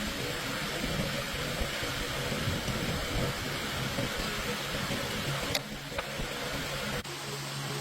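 A machine running with a steady, noisy mechanical sound and a low rumble. A click comes near the end, then a steadier low hum.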